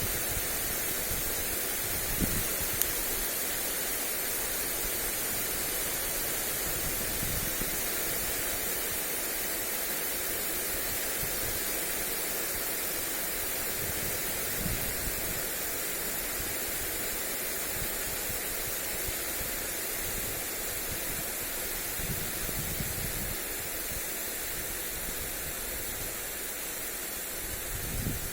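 Lawn sprinkler spraying water onto grass: a steady hiss, with a few brief low rumbles of wind on the microphone.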